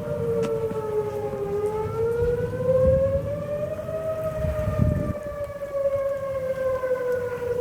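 Outdoor tornado warning siren wailing steadily, its pitch slowly falling, rising and falling again, with gusty wind rumbling on the microphone underneath.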